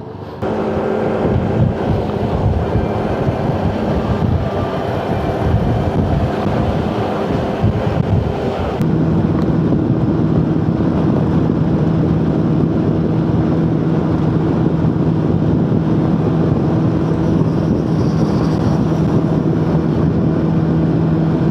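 Motorcycle engine running steadily at road speed with wind noise on the microphone; about nine seconds in the sound changes abruptly to a steadier, lower engine hum.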